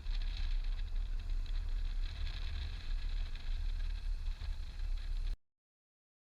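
Motorcycle riding noise: heavy, gusting wind buffeting on the microphone over the bike on the move. It cuts off abruptly to silence about five seconds in.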